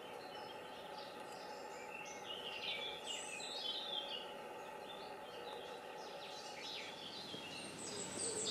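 Small birds chirping and twittering in short calls over a faint, steady outdoor background.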